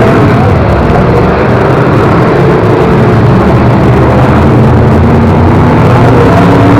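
Several race car engines running and revving together at close range, loud and steady, with pitches rising and falling as the cars speed up and slow down.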